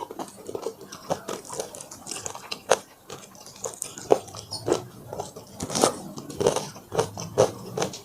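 Crunchy bites into fried chicken, with chewing: irregular crisp crackles one after another.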